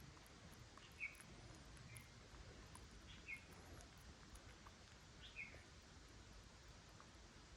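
Faint, short high-pitched chirps, four of them one to two seconds apart, over a low steady hiss.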